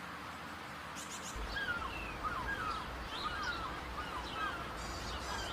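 Birds calling in quick short chirps, many of them, starting about a second and a half in, over a steady background hiss of outdoor ambience.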